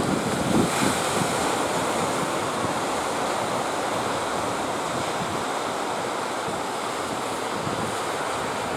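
Strong wind blowing across a phone's microphone over a steady rush of sea surf.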